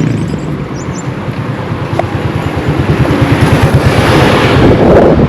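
A motor vehicle passes close by on the road, its engine throbbing quickly and building to a peak with a rush of tyre and wind noise near the end before it drops away.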